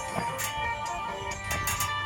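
Phin music, the northeastern Thai plucked lute, playing with steady droning notes, with a few sharp clicks over it.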